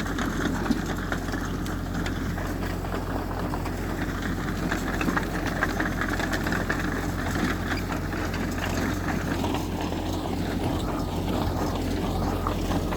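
Diesel engine of heavy earthmoving machinery running steadily, with a constant low drone and faint scattered clicks.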